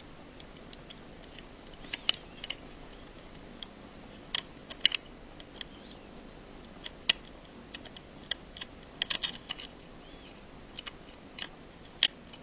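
Small screwdriver working a tiny slotted screw inside an iPhone 5, the tool tip and screw clicking against the phone's metal parts in irregular light clicks.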